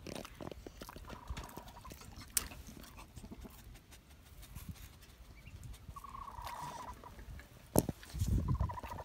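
Broody Faverolle hens giving short low clucking calls, twice, among scattered small clicks; near the end a sharp click and a brief low rumble are the loudest sounds.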